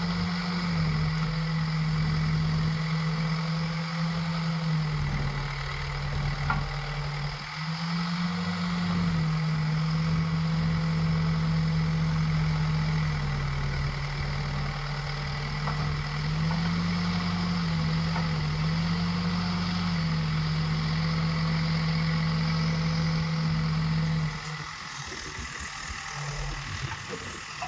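Backhoe loader's diesel engine running under hydraulic work, its steady hum stepping up and down in pitch several times as the revs change. About 24 seconds in it drops back to a quieter running.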